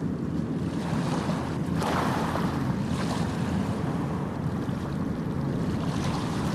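Ocean waves washing onto a beach, a continuous surf noise with a low rumble; a wave swells up louder about two seconds in.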